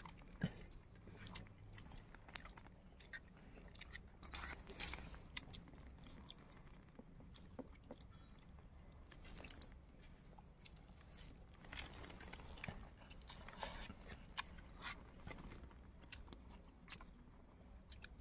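Faint eating sounds: chewing and lip smacking as rice and fish curry are eaten by hand, with scattered small clicks and the fingers working rice against a steel plate.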